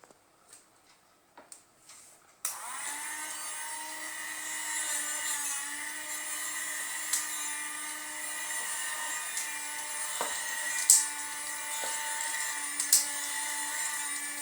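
Small battery-powered motor of a homemade bottle vacuum cleaner switched on about two and a half seconds in, spinning up and then running with a steady high whine. A few sharp ticks sound over it.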